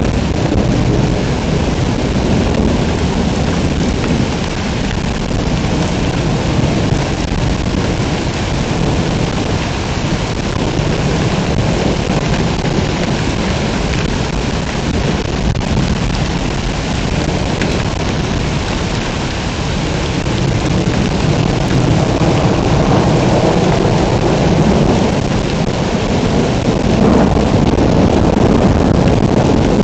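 Heavy rain pouring in a thunderstorm: a dense, steady roar with a deep low rumble underneath, which grows louder in the last third.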